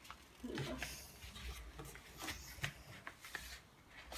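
A sheet of paper being folded and creased by hand: crinkling with scattered light scrapes and taps as the fold is pressed flat.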